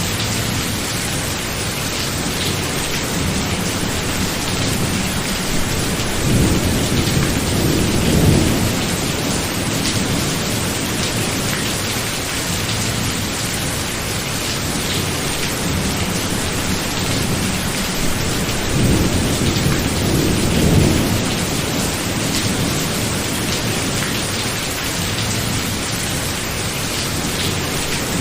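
Steady rain falling, with two rolls of thunder: a low rumble swells about six seconds in and again about nineteen seconds in, each lasting a few seconds.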